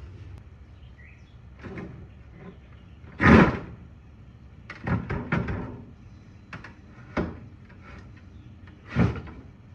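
Wooden dresser drawers being pulled out and handled, with a series of separate knocks and scrapes. The loudest knock comes about three seconds in, and another sharp one comes near the end.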